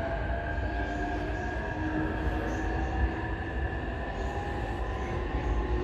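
E531 series electric multiple unit running on the Tokaido Line, its traction motor whine rising slowly in pitch as the train gathers speed, over a steady low rumble of wheels on rail.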